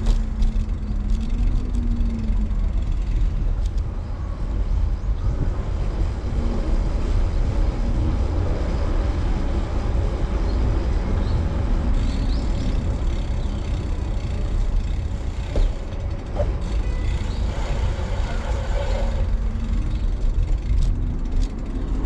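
Wind buffeting the microphone while riding a road bike: a steady, loud low rumble.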